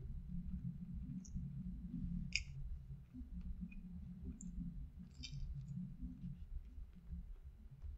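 A person chewing a mouthful of pizza crust, with scattered soft mouth clicks and smacks; the sharpest click comes a little over two seconds in and a small cluster near five seconds.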